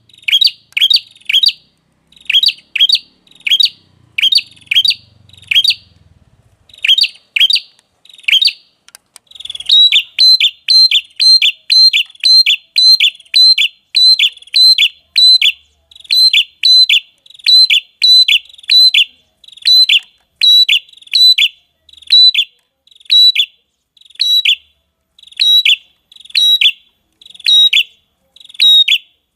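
Bird-lure recording of a red-headed prenjak calling: short, sharp, high chirps repeated over and over. For the first nine seconds they come in quick pairs and triplets, then settle into an even run of about two notes a second.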